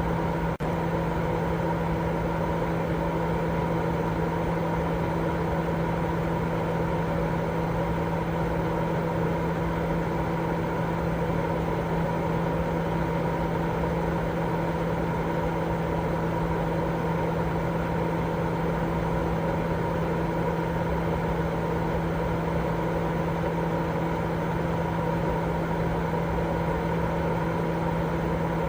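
Steady baby-sleep white noise: a continuous, even rushing hiss, heavier in the low and middle range, with a low steady hum running under it and a brief dropout about half a second in.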